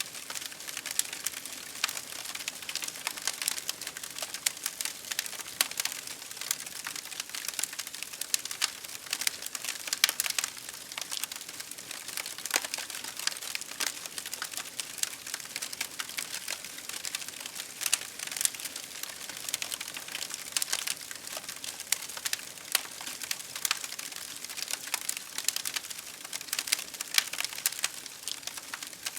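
Wood campfire crackling, with dense, irregular pops and snaps over a soft, steady hiss.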